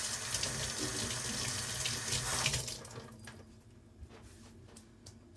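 Kitchen tap running in a steady stream, shut off about three seconds in, followed by a few faint clicks.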